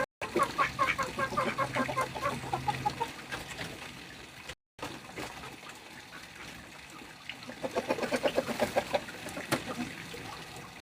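Backyard hens clucking in a coop: runs of quick, short clucks, busiest in the first few seconds and again about eight seconds in. The sound drops out briefly twice and cuts off suddenly near the end.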